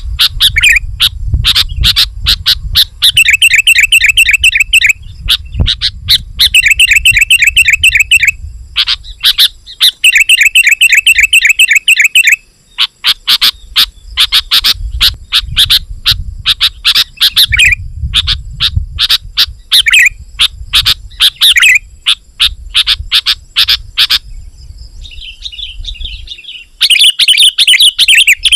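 Sooty-headed bulbul (kutilang) calling loudly and without let-up: bursts of rapid chattering notes come again and again with short gaps between them. This is the excited 'gacor' calling used to lure wild bulbuls. A low rumble runs underneath.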